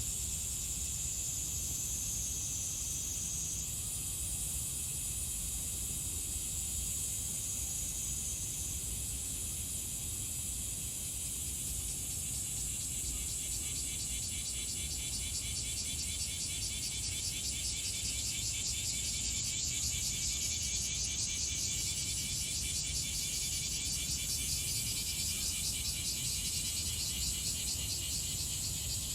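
Outdoor ambience of insects chirring in a high, steady drone that turns into a fast, even pulsing about twelve seconds in, over a low rumble.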